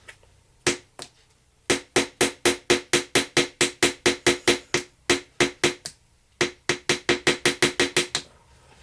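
Small hammer tapping a chisel into a treasure-dig excavation block, sharp strikes with a short ringing tone. Two single taps, then fast runs of about four to five strikes a second with short pauses between them.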